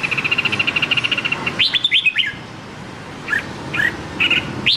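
Red-whiskered bulbul calling: a fast, even chattering trill for about a second and a half, then a few sharp down-slurred notes and short clipped phrases.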